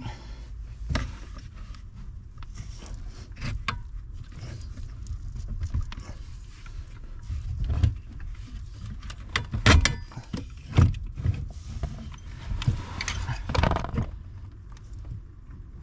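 Scattered metallic clinks, rattles and knocks of hand work on a car's steering column as it is lowered and worked loose, over a steady low hum. The loudest knocks come in clusters about ten seconds in and again a few seconds later.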